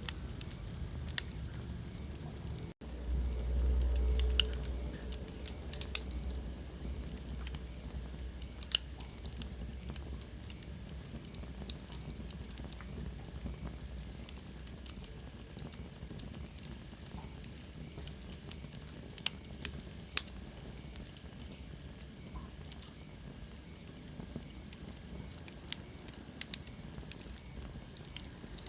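Wood fire crackling in a fireplace, with irregular sharp pops over a soft steady hiss. There is a low rumble about three to four seconds in, and a faint high whistle falling in pitch around twenty seconds in.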